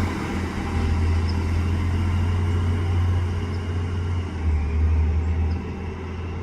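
Garbage truck's diesel engine running with a steady low drone.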